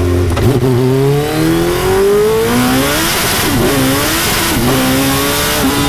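Turbocharged Suzuki Hayabusa inline-four engine in a Reliant Bond Bug three-wheeler pulling away: its pitch jumps about half a second in and climbs steadily for two seconds. The pitch drops briefly twice, like gear changes, then holds steady near the end.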